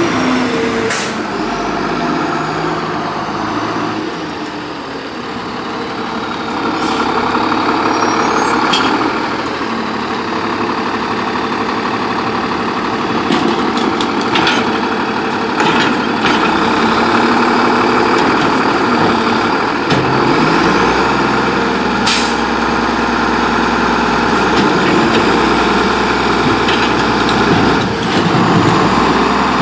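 Freightliner Condor garbage truck with an Amrep MSL side loader: its diesel engine running, the pitch rising and falling as it works, with several short, sharp air-brake hisses.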